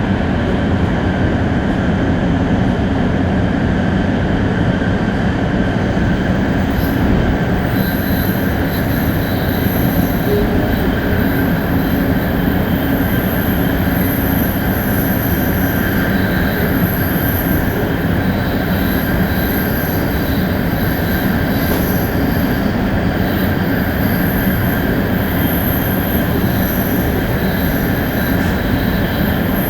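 Onboard running sound of a Shinkansen 500 series train: a steady, loud rumble of wheels on rail with faint steady whining tones over it, and a thin high whine joining about seven seconds in.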